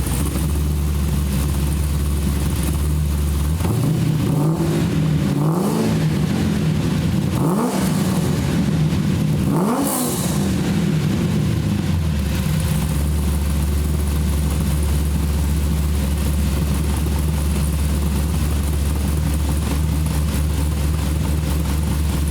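1974 Corvette V8 idling through a custom stainless steel X-pipe exhaust, blipped up three times about four seconds in, each rev climbing and falling back, then settling into a steady idle.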